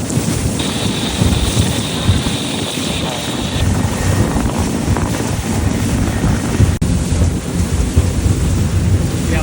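Strong wind buffeting the microphone on a boat running across open water, a loud, steady rumble with water and hull noise beneath it. A brighter hiss is layered on top for about three seconds near the start.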